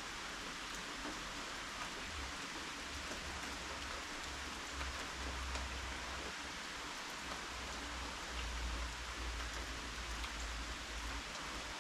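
Steady rain falling: an even hiss with scattered drops ticking. A low rumble comes and goes from about two seconds in.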